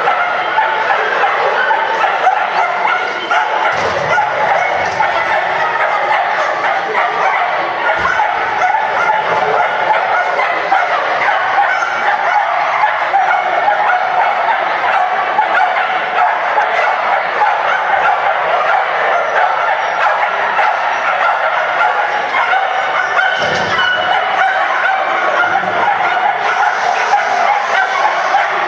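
Dogs barking and yipping continuously, blending into a dense, steady din.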